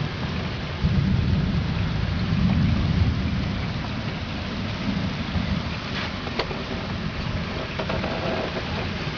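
Thunder rumbling over steady rain. The rumble swells about a second in, is strongest for the next couple of seconds, then eases to a lower roll, with a few sharp taps near the middle.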